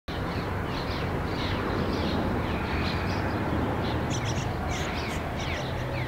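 Wild birds chirping: a steady stream of short, falling high notes over an even background hiss.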